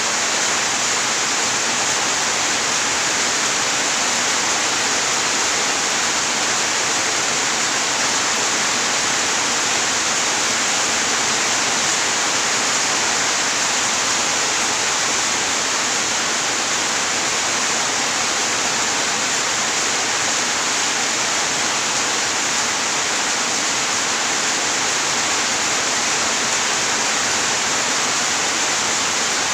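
Steady heavy rain, a dense even hiss that does not change.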